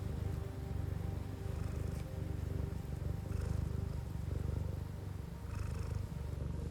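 Domestic cat purring close up: a steady low rumble that swells and eases with each breath in and out.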